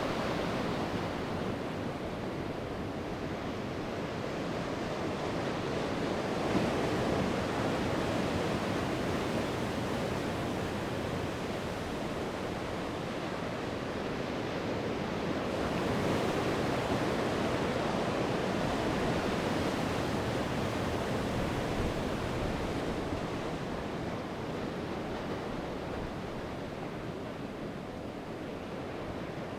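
Sea waves breaking and washing on the shore, a continuous rush that swells and eases over several seconds as each wave comes in, with some wind on the microphone.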